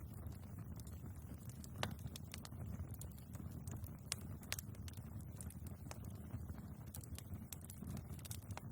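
Wood fire burning in a fireplace: a steady low rustle of flames with irregular crackles and pops from the logs, a sharper pop about two seconds in.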